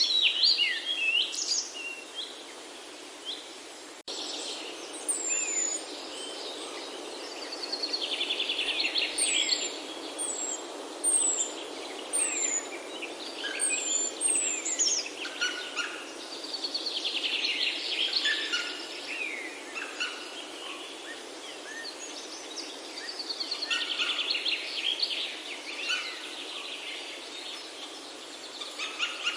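Several songbirds singing and calling: long buzzy trills that come back every several seconds, with short high descending whistles in between, over a steady soft background hiss. The sound cuts out for an instant about four seconds in.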